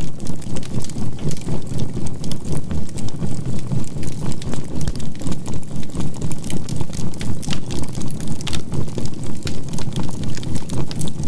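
Low droning binaural-beat track that swells about four times a second, with a faint steady 528 Hz tone, laid over the crackle and small pops of a burning charcoal fire.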